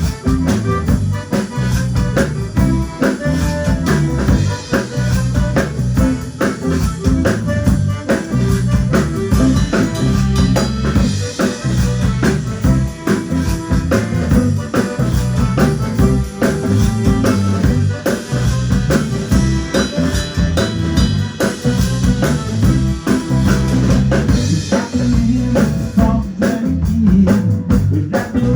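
A band playing an instrumental passage, with drum kit and electric guitar keeping a steady beat and no singing.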